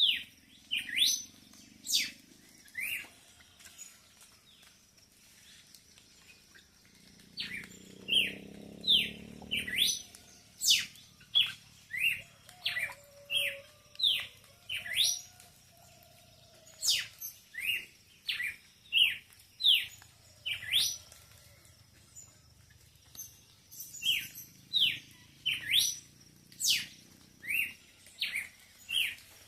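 Songbirds calling: short, sharp chirps repeated in runs of about two a second, with brief pauses between runs and other fainter bird calls behind.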